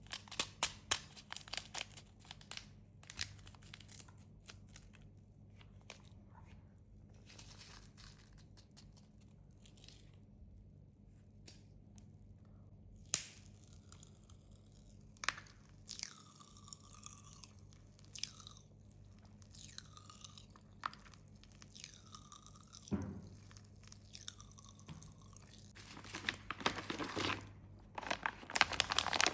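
Close-up crunching, clicking and crinkling of candy and its wrappers being handled, with scattered sharp snaps and quieter stretches in between.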